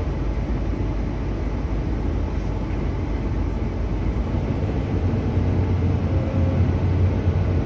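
A heavy vehicle's engine running steadily, with a low hum that grows louder about five seconds in.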